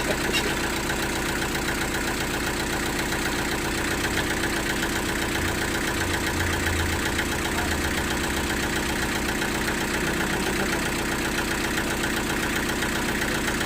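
Sawmill machinery running with a steady mechanical drone and a fast, even pulse.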